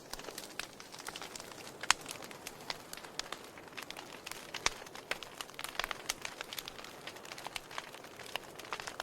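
Wood fire crackling, with many irregular sharp pops and snaps over a soft hiss; one louder pop about two seconds in.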